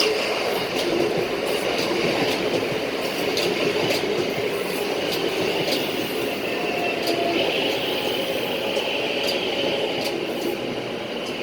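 CSR/Mitsubishi electric multiple-unit train running into a station: a steady rolling rumble of wheels on rail, with frequent sharp clicks over the track and a faint steady whine.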